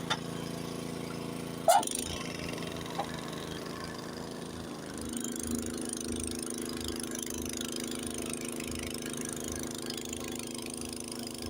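Honda HS80 tracked snowblower's single-cylinder engine running steadily as it works through snow. A sharp knock comes just under two seconds in, and the engine note grows stronger from about five seconds in.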